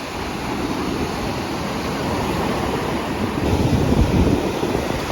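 Ocean surf and wind buffeting the microphone, a steady rush that swells louder about three and a half seconds in.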